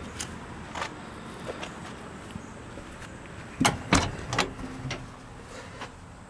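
Scattered light clicks, then two loud knocks in quick succession a little past halfway and a few softer clicks after, as a truck door and its latch are handled.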